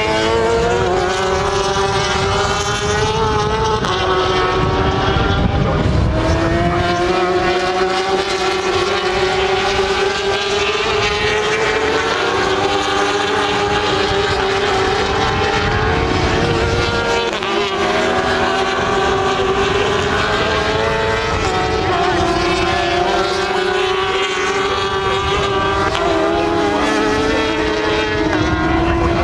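Racing motorcycle engines at high revs, their pitch climbing and then dropping back several times as the riders shift and roll off the throttle.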